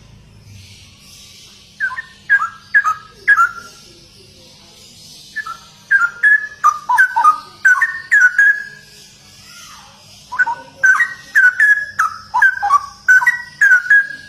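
Straw-headed bulbul (cucak rowo) singing: three loud bouts of quick, rich whistled notes with falling slides, separated by short pauses, over a faint steady hiss.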